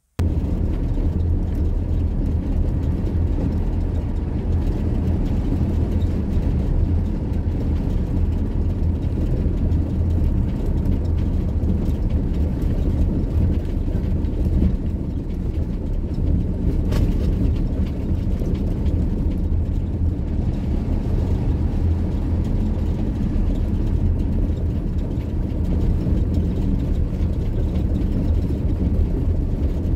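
Camper van driving at a steady speed: an even, loud rumble of engine and road noise, with a brief click about halfway through.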